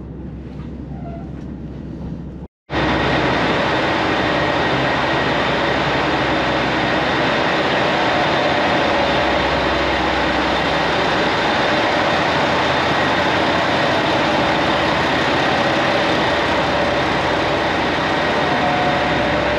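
Train running at speed: a steady loud rumble and hiss with a few faint held whines. It starts abruptly after a short break about two and a half seconds in, and before the break there is a quieter noise.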